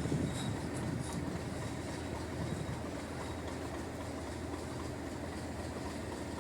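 Heritage diesel train running: a steady low rumble of wheels and engine that does not change.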